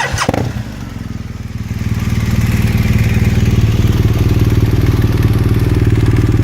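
2015 BMW R1200RT's boxer twin, warm, starting up through a GPR full exhaust with a catalytic-converter-delete header and one internal baffle, then settling into a steady, even idle about two seconds in.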